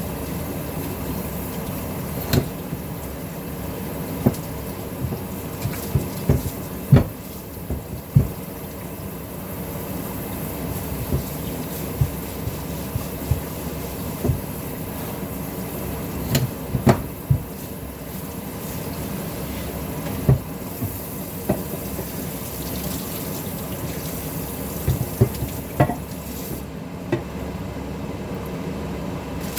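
Water running steadily from a kitchen tap into a sink, with scattered short knocks and clinks of kitchenware throughout.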